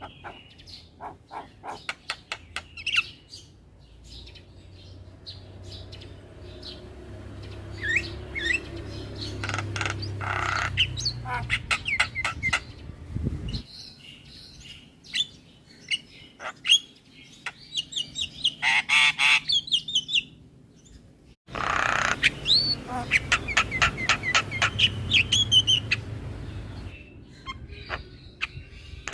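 Javan myna (jalak kebo) singing: rapid series of clicks, short whistles and harsh chattering calls, with two abrupt breaks.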